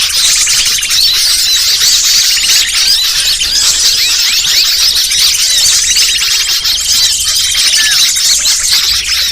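Dense chorus of many small birds chirping and trilling over one another without a break, the kind of bird-lure (pikat) recording played to draw wild birds in.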